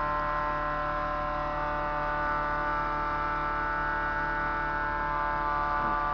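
Steady machine hum made of several unchanging tones, with nothing else standing out.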